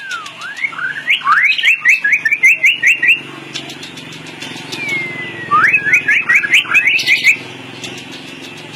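White-rumped shama (murai batu) singing: two loud phrases, each a downward-gliding whistle breaking into a fast run of repeated sharp whistled notes, the second starting about five seconds in. Faint high ticking runs underneath.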